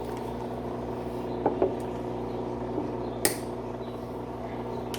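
Electrolux LTE12 top-loading washing machine running with a steady hum, over which come a few sharp clicks and taps, two close together about one and a half seconds in and a louder one past the middle.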